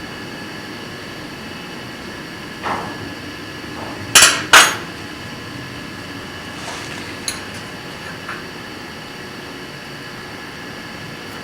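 Hammer tapping on metal: two sharp, ringing strikes close together about four seconds in, with a few lighter knocks and clinks before and after.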